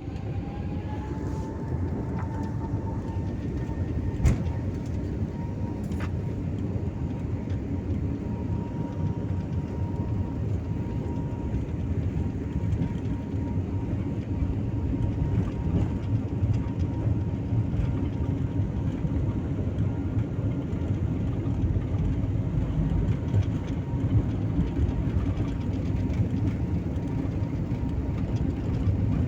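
Airliner taking off: a steady low rumble of jet engines and rolling wheels, with an engine whine that rises in pitch over the first two seconds and then holds. Two short knocks come about four and six seconds in.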